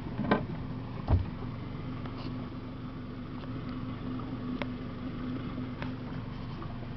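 Boat engine idling with a steady hum. Two sharp knocks come within the first second or so.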